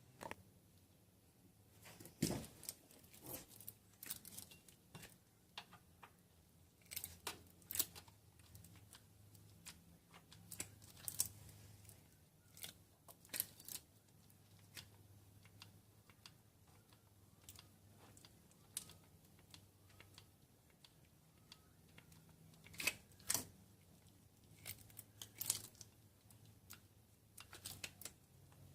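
Sporadic light clicks and taps, some in quick clusters, over a faint steady low hum.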